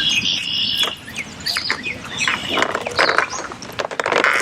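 Largemouth bass being fought on the line, with water splashing in short irregular bursts. A high, steady whistling tone runs through the first second.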